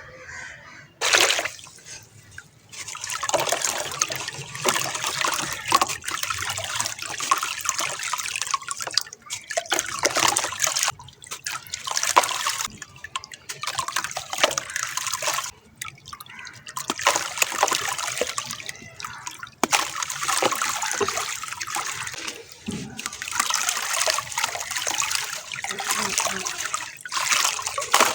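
Dried sand-cement chunks crumbling and dissolving in water, a fizzing, crackling patter with trickling water. It comes in runs of a few seconds with brief pauses between.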